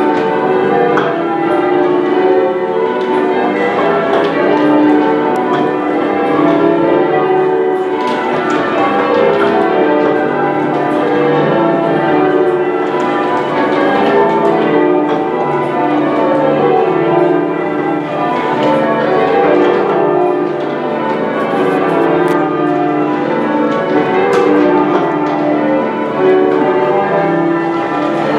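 Manchester Cathedral's ring of ten church bells being change-rung: a continuous run of strikes, row after row stepping down in pitch from the treble to the tenor.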